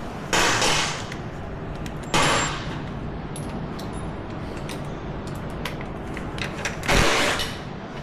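Three short bursts from a power tool, about half a second each, working loose the bolts that hold ATV Nerf bars on. A steady low hum runs underneath, with scattered light clicks of metal parts.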